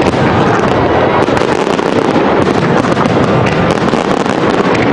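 Fireworks display going off: a dense, continuous mass of bangs, pops and crackling, with a few short whistling glides.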